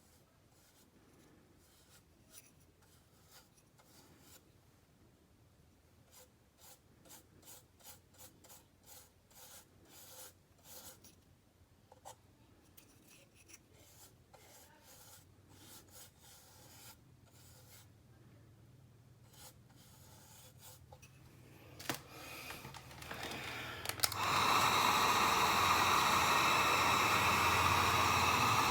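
Quick, light rubbing strokes of paint being worked onto a plastic airsoft magazine, bunched into short runs. About 24 seconds in, a loud steady blowing hiss with a faint hum in it starts and keeps going.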